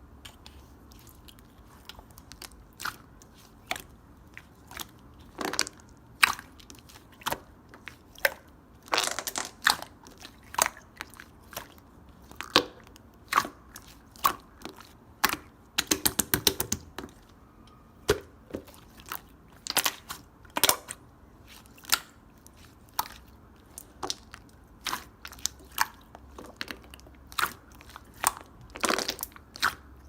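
Slime being pressed, folded and poked by hand, giving sharp, irregular clicks and pops of trapped air, with a quick run of pops about halfway through.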